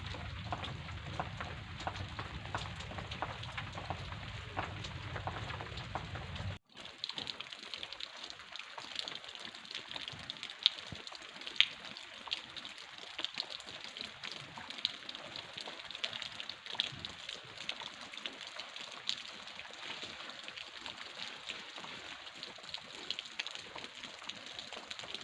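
Heavy rain falling and striking surfaces as many close, sharp drop hits. A low rumble under the rain stops abruptly about six seconds in, after which the hits sound crisper, with a couple of louder strikes.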